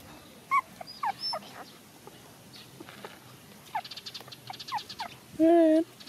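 Young puppies squeaking and whimpering in short, falling squeaks, with a louder wavering whine lasting about half a second near the end.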